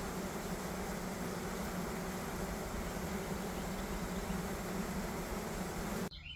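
Steady hum of a mass of honeybees swarming around an open hive, a dense drone centred near 200 Hz. It cuts off abruptly near the end, giving way to faint bird chirps.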